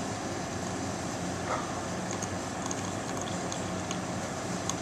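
Keurig B130 single-cup brewer running as it dispenses coffee: a steady hiss with a faint low hum from the machine's pump and hot-water flow.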